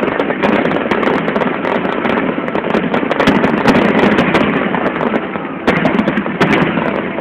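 Aerial fireworks display bursting: dense, continuous crackling with many rapid pops and bangs.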